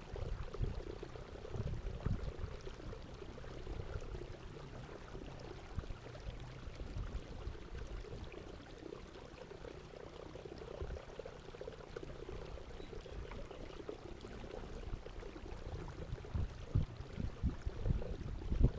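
Water sloshing and trickling, with irregular low rumbles throughout.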